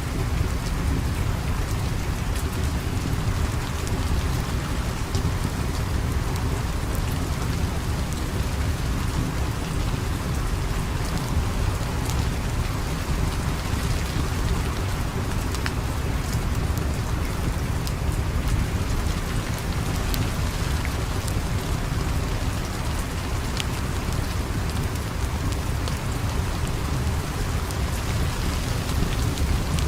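Steady rain with a low rumble underneath, and scattered faint sharp crackles of a wood fire.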